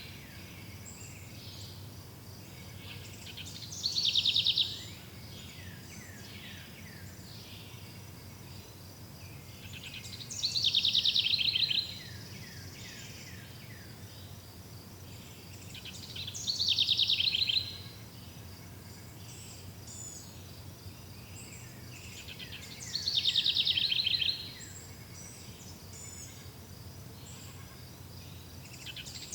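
A songbird singing the same short, fast trilled phrase about every six seconds, five times, each phrase starting high and dropping. Between phrases a faint, steady high chirping goes on.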